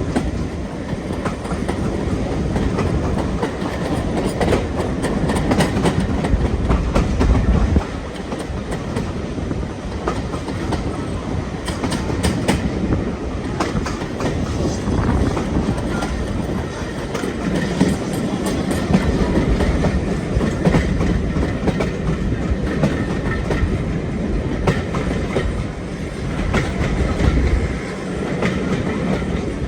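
Train running along the track: a steady rumble with wheels clicking over the rail joints. The low rumble drops suddenly about eight seconds in.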